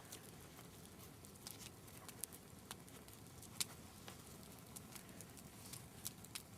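Faint, irregular sharp crackles and clicks over a quiet background, one louder click about halfway through.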